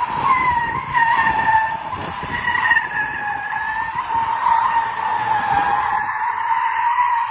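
Car tyres squealing in a long, unbroken skid, a high steady squeal that wavers slightly in pitch.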